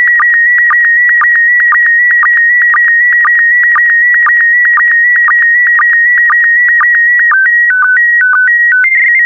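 PD120 slow-scan TV (SSTV) image signal: a steady high, electronic tone broken by regular short dips lower in pitch, several a second, as the last scan lines of a picture are sent. Near the end it changes to a short run of tones stepping between two pitches, then a slightly higher steady tone.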